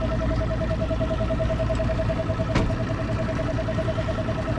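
Boat engine idling: a steady low rumble with a fast, evenly pulsing whine on top. One short sharp click about two and a half seconds in.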